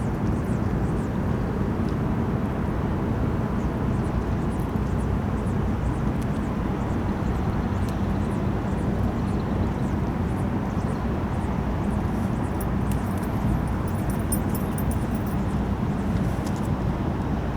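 Steady low rumbling outdoor background noise with no distinct events, with a few faint high ticks in the second half.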